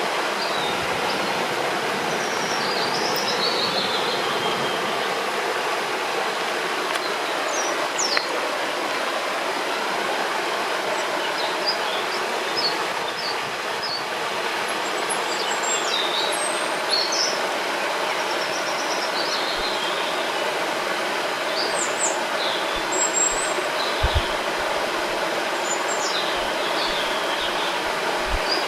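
Steady rushing of a river or waterfall, with birds chirping briefly and repeatedly over it.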